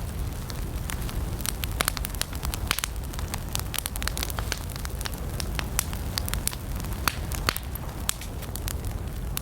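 Wood campfire burning, with a steady low rumble of the flames and frequent sharp, irregular crackles and pops.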